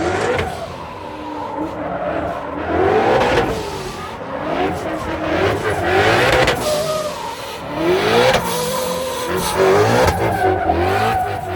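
Drift car engines revving hard, the revs climbing and dropping again and again, over the steady hiss and squeal of tyres sliding sideways on the pavement.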